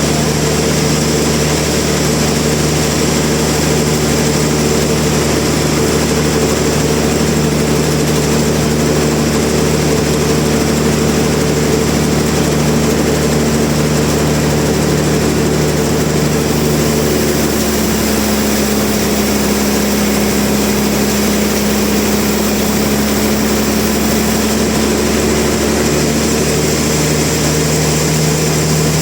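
Sawmill machinery running with a steady engine-like hum. The hum's low note changes pitch a little past halfway and changes back near the end.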